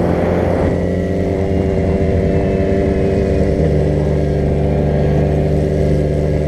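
Vehicle engine running steadily while driving, with a slight change in engine note about three and a half seconds in.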